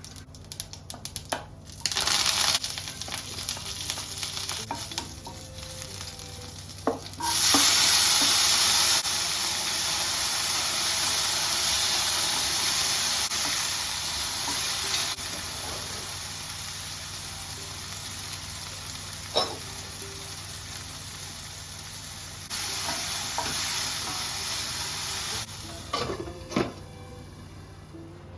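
Food sizzling in hot oil in a pan while it is stirred, with the spoon clicking and scraping against the pan. The sizzle starts suddenly about seven seconds in, loudest at first and slowly dying down, with a second louder spell near the end.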